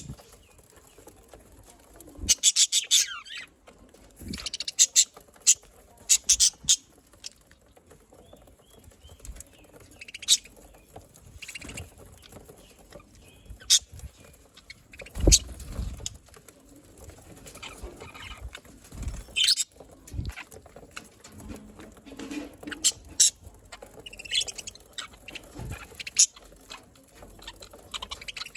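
A flock of budgerigars chirping and warbling in short scattered bursts, with a few soft low thumps, such as birds landing or shuffling on perches.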